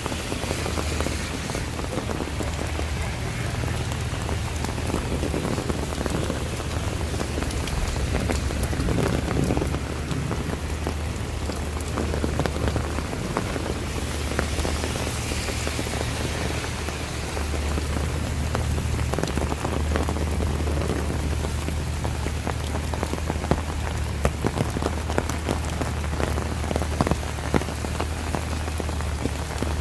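Steady rain falling around a walker, with many close drops pattering on surfaces and a steady low rumble beneath.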